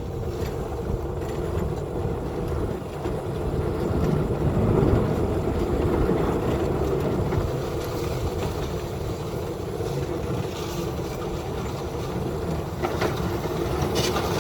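Small engine running steadily, with a constant hum over a low rumble, a little louder around the middle.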